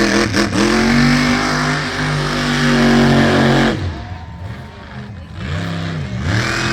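Demolition derby vehicle's engine revving hard, its pitch rising and falling, then easing off a little under four seconds in before revving again near the end.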